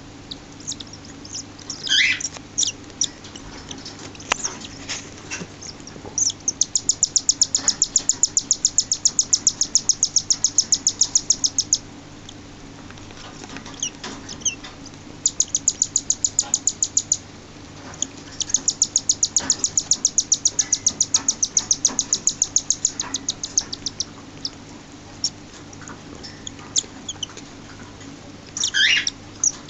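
Six-day-old cockatiel chicks begging as they are fed: long runs of rapid, high-pitched chirps, about five or six a second, broken by short pauses. A sliding call is heard about two seconds in and again near the end.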